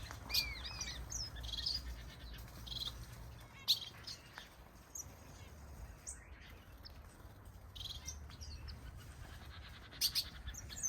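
Small finches in a mixed outdoor aviary flock calling: scattered chirps, arched whistled notes near the start and a few short buzzy notes, with one sharper note about four seconds in.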